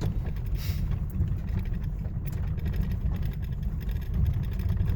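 Ford Ranger pickup driving, heard from inside the cab: a steady low rumble of engine and road noise, with a few brief rattles.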